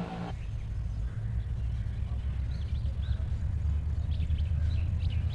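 Low, steady rumble of an approaching diesel locomotive, growing slowly louder, with faint bird chirps over it.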